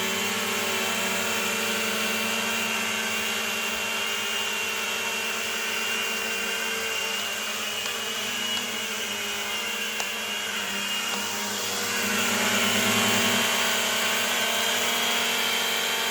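Propel Flex 2.0 toy quadcopter's motors and propellers whirring steadily in flight, a high whine made of several tones, running on a low battery. About twelve seconds in it grows louder and the pitch shifts.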